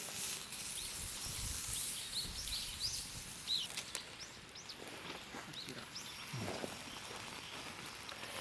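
Small birds chirping repeatedly over a steady outdoor hiss, the chirps falling away after about three and a half seconds.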